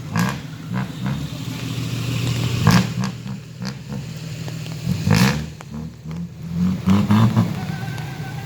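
Car engine running and revving, rising and falling. Three sharp knocks are heard during it.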